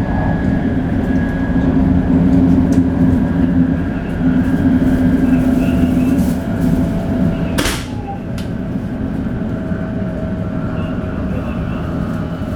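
Shinkansen 500 series train running at speed, its Toshiba GTO-VVVF traction equipment heard as faint steady tones over the rumble. A brief sharp hiss about three-quarters of the way through, after which the running noise is somewhat quieter.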